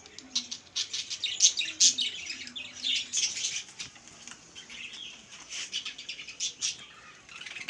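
A flock of budgies chirping and chattering, many short overlapping chirps throughout.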